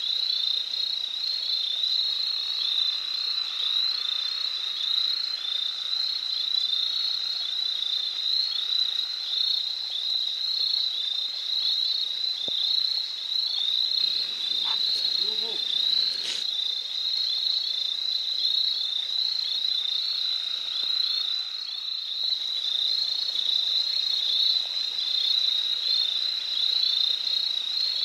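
Rainforest animal chorus: many small callers making a dense, steady mass of rapid high-pitched chirps. A faint lower, wavering call comes about halfway through.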